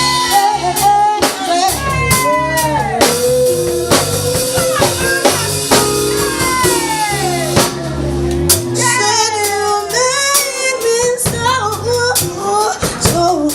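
A live band playing, with drum kit and bass, while a female singer sings long melismatic gliding lines.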